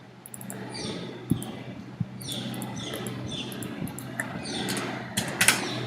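A few computer mouse clicks, the loudest cluster near the end, over a steady electrical hum. Many short high chirps falling in pitch come and go in the background.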